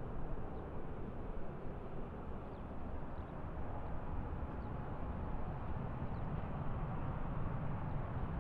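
Steady low rumble of outdoor airport ambience, with a few faint, short high chirps.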